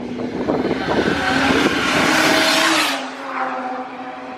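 A car driving past with its engine running and a loud hiss of tyres that swells to a peak about two seconds in, then fades.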